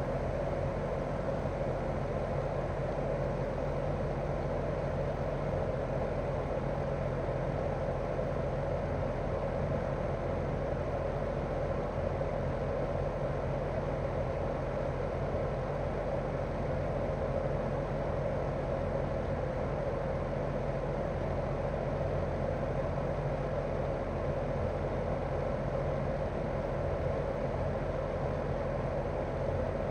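Daikin R28RMV mini-split outdoor unit running steadily in heating mode, its twin-cylinder swing compressor and fan giving an even hum with a steady mid-pitched drone.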